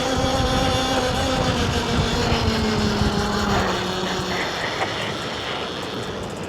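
Oneway E-Box 72-volt electric mini bike's motor whining and falling slowly in pitch as the bike slows, over low wind rush on the microphone.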